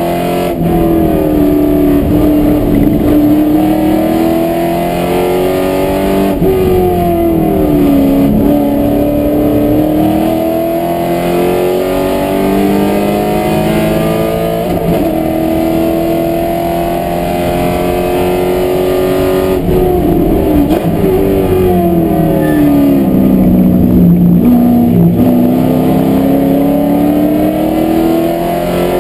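Corvette race car's V8 engine under hard load, heard from inside the cabin. Its pitch climbs slowly along the straights, then falls as the car brakes and downshifts into corners, twice: once about a quarter of the way through and again about two-thirds of the way through.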